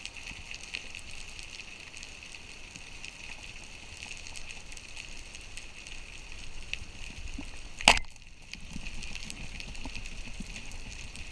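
Underwater crackling of snapping shrimp, a steady fizz of tiny clicks, with one sharp, loud crack about eight seconds in.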